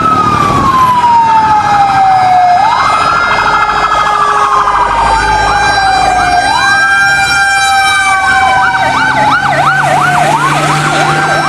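Electronic fire-engine siren of a toy fire truck: slow wails that rise and fall about every four seconds, switching to a fast yelp near the end, then cutting off suddenly.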